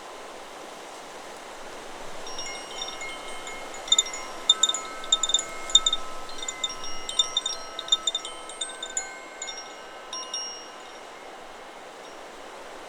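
Chakra Chimes 'Solar Plexus' wind chime set ringing by the wind. After about two seconds of plain wind, a flurry of strikes builds up, and the several tones overlap and ring on. The strikes thin out and stop a couple of seconds before the end, leaving the steady hiss of wind.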